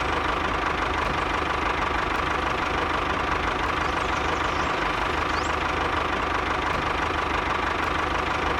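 Engine idling steadily with an even beat, a constant high tone running over it.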